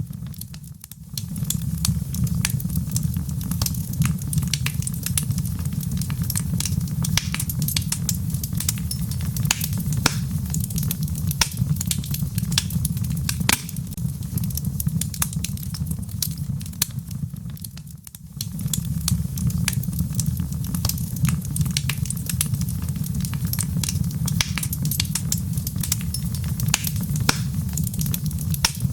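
Wood fire in a fireplace crackling, with many sharp irregular pops and snaps over a steady low rumble of flames. The sound dips away briefly about a second in and again about 18 seconds in.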